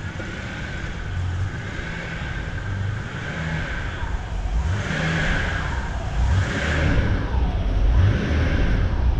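Ferrari Testarossa's flat-twelve engine running, its revs rising and falling a few times in the second half, getting louder toward the end.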